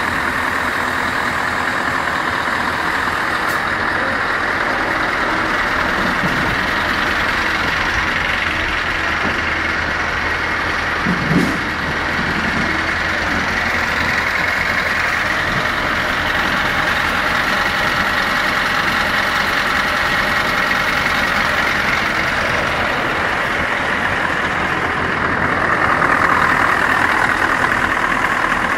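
Scania R500 V8 diesel truck engine running steadily at idle, with one brief louder sound about eleven seconds in and the engine running a little louder near the end.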